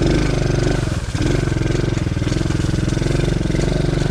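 DB14 110cc pit bike's single-cylinder four-stroke engine running under way on a woods trail, steady, with a brief dip in level about a second in.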